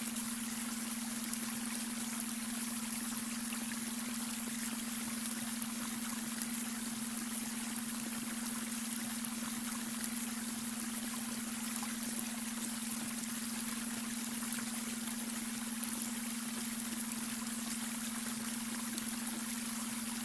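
Babbling brook: water running and trickling steadily over stones, unchanging throughout. Under it a steady low hum tone, the beta brainwave track mixed into the water sound.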